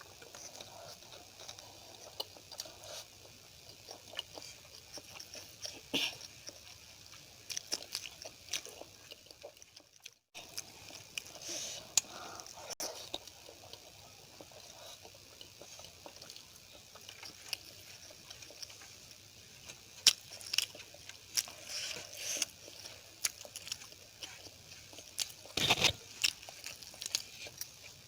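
Close-miked chewing and wet mouth sounds of a person eating poori, rice and potato curry with sambar, with many small smacks and clicks. The sound cuts out briefly about ten seconds in.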